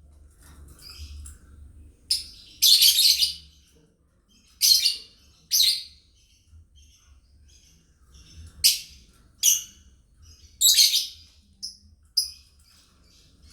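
Lovebirds chirping: soft high twittering throughout, broken by about seven loud, high chirp bursts that come every second or two.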